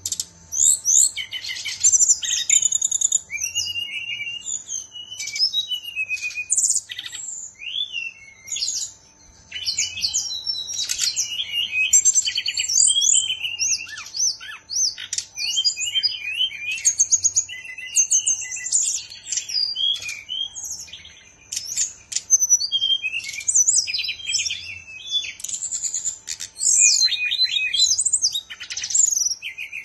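Caged SRDC (sikatan rimba dada coklat, a jungle flycatcher) singing almost without pause: a fast, varied run of chirps, trills and whistled phrases. This is the bird in full song, in the flute-like style that keepers call sulingan bambu.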